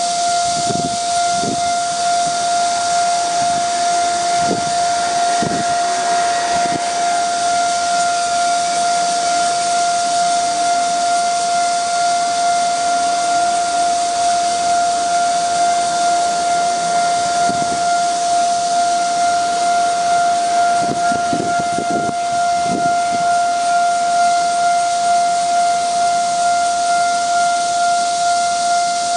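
Railway level-crossing warning alarm sounding continuously as a steady, unbroken high tone, the signal that a train is approaching and the barriers are down.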